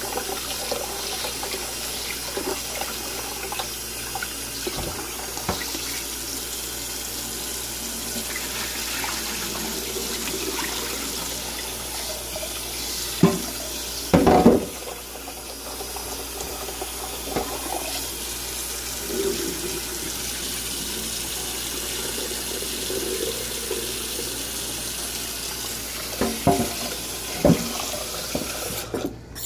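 Tap water running steadily into a sink as rice is rinsed, with a few sharp knocks, a pair about halfway through and two more near the end.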